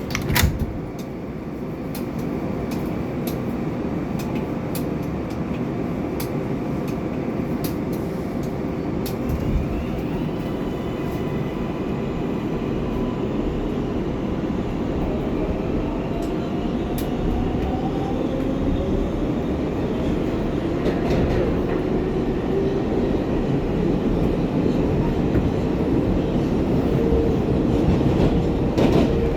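R188 subway train heard from inside the car as it pulls away and runs through the tunnel: a steady rumble of wheels on rail with scattered clicks, and a faint whine that rises in pitch as the train gathers speed. A single sharp thump comes just after the start, as the doors close.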